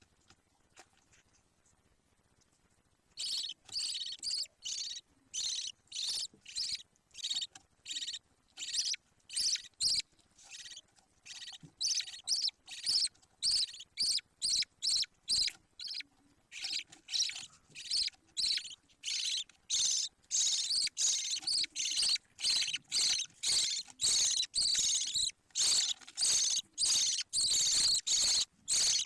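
Budgerigar chick calling: short, high calls repeated about two a second, starting about three seconds in and growing louder near the end.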